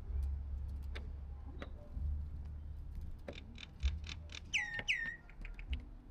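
A bird gives two short calls in quick succession, each gliding down in pitch, a little past the middle. Just before them comes a run of sharp taps and clicks. A low rumble runs under the first part.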